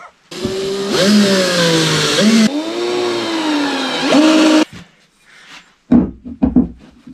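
Handheld power tool running under load on metal, its motor pitch sagging and recovering several times for about four seconds, then stopping; a few short knocks follow near the end.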